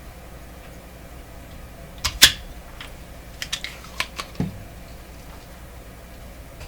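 A handful of sharp clicks and taps, the loudest about two seconds in, followed by a duller knock, over a steady low background hum.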